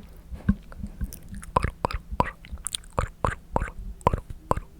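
Close-miked ASMR mouth sounds: a string of sharp, wet clicks and smacks of the tongue and lips, the 'tk tk' trigger, coming irregularly about two to three times a second.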